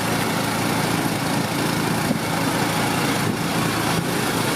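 Small engine running steadily while the vehicle travels, with a constant rush of road and wind noise.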